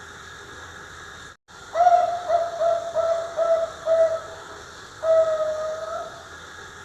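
Young zebra dove (perkutut), about three and a half months old, cooing: a longer note followed by a run of about five short repeated notes, then a single long coo near the end, over a steady hiss.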